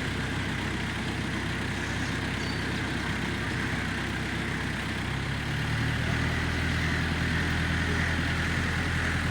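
A large vehicle's engine running steadily at idle, growing louder about five and a half seconds in.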